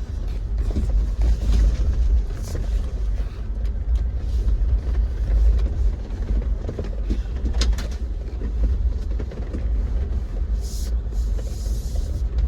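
Jeep driving slowly over a rough, rocky dirt trail: a steady low rumble of engine and tyres with scattered knocks and rattles as it jolts over the bumps.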